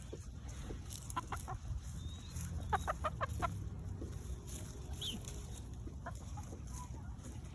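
Chickens clucking in short runs of quick notes, the busiest run a little under three seconds in, over a steady low background rumble.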